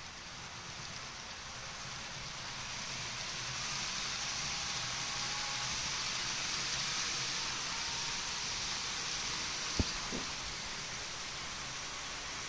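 N-gauge model Shinkansen train running on its track: an even rushing hiss that swells over the first several seconds and eases slightly, with two sharp clicks close together about ten seconds in.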